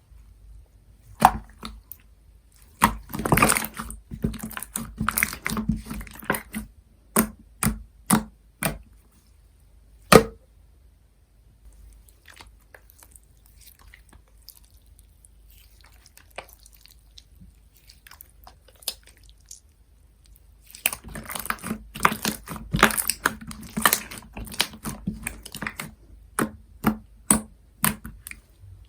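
Sherbet jiggly slime being handled by hand: wet squishing with many sharp pops and clicks, in two busy stretches with a quieter spell between them.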